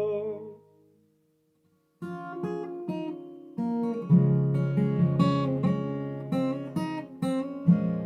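Acoustic guitar instrumental break: a held note dies away, a second of silence, then single picked notes that build into strummed chords about four seconds in.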